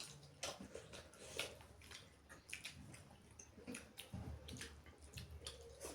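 Close-miked eating sounds of chicken curry and rice: irregular chewing, lip smacks and wet, squishy clicks.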